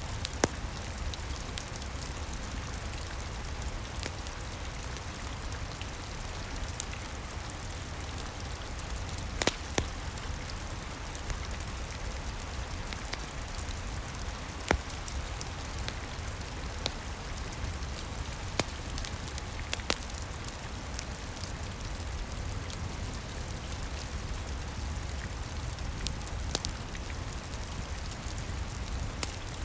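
Steady rain with a low rumble under it, and a crackling fire giving sharp pops every few seconds.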